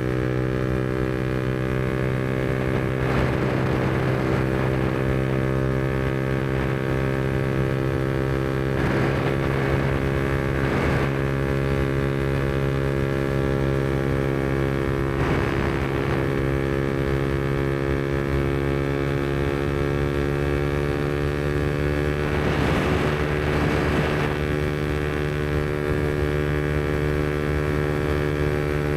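Yamaha MT-125's single-cylinder four-stroke engine, breathing through a Black Widow aftermarket exhaust, running at steady revs while the bike cruises at constant speed. Four brief rushes of noise pass over it.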